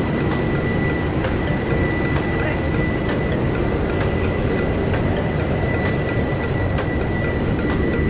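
Ship's engine room machinery running: a loud, steady low drone with a constant high-pitched whine over it.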